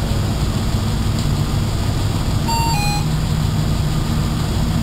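Race car engine idling steadily, heard inside the cabin with the car standing still. A short two-note electronic beep, falling in pitch, sounds about halfway through.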